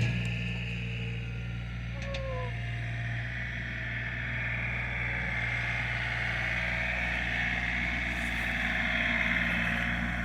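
An engine running steadily at a constant speed, with a short falling squeak about two seconds in.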